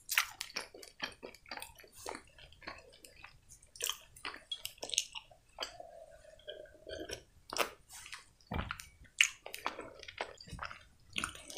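Close-miked mouth sounds of a person chewing a candy, with many small wet clicks and smacks. About six seconds in comes a drawn-out sip from a mug, followed by more chewing.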